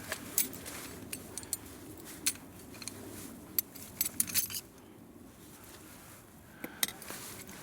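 A series of sharp clicks and clinks from small hard objects being handled, with a quick cluster about four seconds in.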